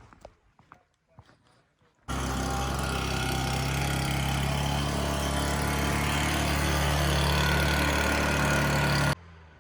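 A motor vehicle's engine running steadily under a loud, broad hiss of road and wind noise, starting abruptly about two seconds in and cutting off suddenly near the end.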